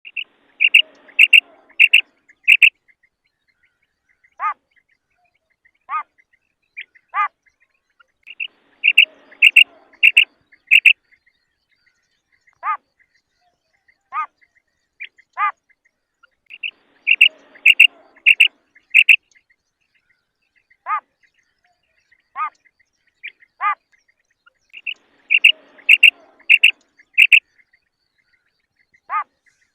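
Female common quail calling: groups of about five quick, sharp, high notes repeating roughly every eight seconds, with single softer, lower notes between the groups.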